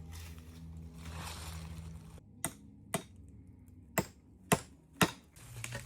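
Five sharp knocks of a tool striking wood, starting about two and a half seconds in and spaced roughly half a second apart, with one longer pause. A low steady hum runs under the first two seconds.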